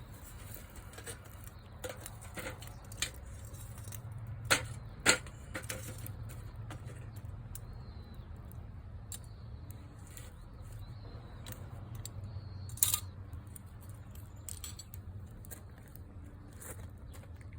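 Wood bonfire crackling: scattered sharp pops and snaps over a steady low rumble, with the loudest pops about four and a half, five and thirteen seconds in.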